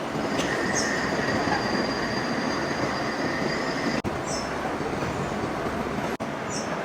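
Machine-shop metalworking noise: a machine cutting metal, with a high steady whine for the first four seconds or so. The sound cuts out abruptly twice, briefly.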